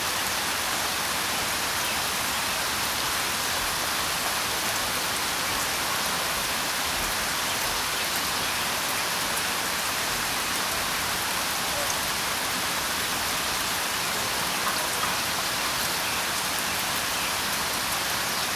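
Steady, dense rain falling: an even hiss of many drops with no let-up.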